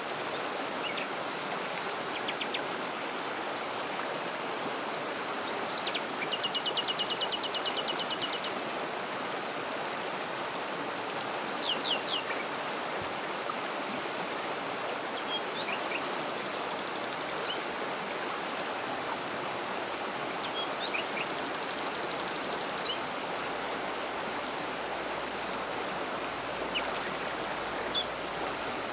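Steady rush of a waterfall and flowing stream, with small birds calling over it: a rapid high trill lasting about two seconds around six seconds in, two shorter trills later, and scattered short chirps.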